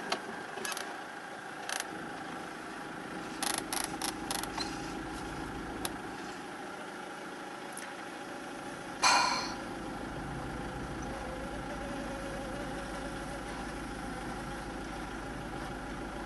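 Four-wheel-drive vehicle's engine running steadily in low ratio while it tows on a rope. There are a few sharp clicks in the first few seconds, and one short, loud rushing burst about nine seconds in.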